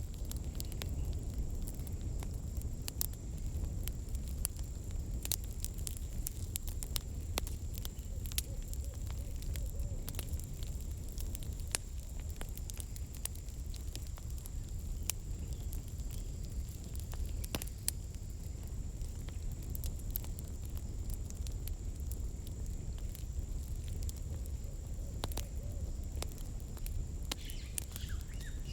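Campfire of burning firewood crackling, with irregular sharp pops over a steady low rumble of the flames. A faint, steady high-pitched tone runs underneath.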